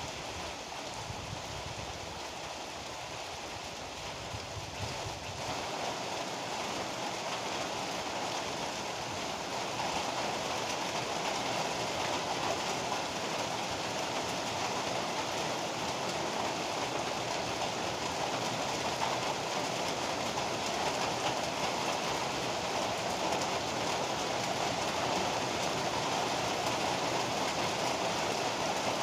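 Steady heavy rain, a continuous even hiss that grows slightly louder after about five seconds. A low rumble underlies the first few seconds and fades away.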